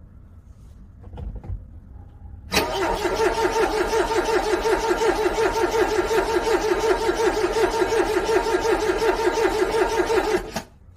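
A car engine being cranked by its starter in the cold: a sudden start into rapid, even pulsing that runs for about eight seconds and then cuts off without the engine catching. A couple of faint clicks come before it.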